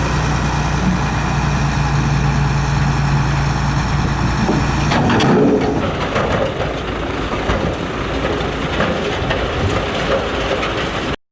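Heavy diesel construction machinery at work: an engine runs with a steady low drone for about five seconds, then the steady tone gives way to a rougher, noisier rumble and clatter.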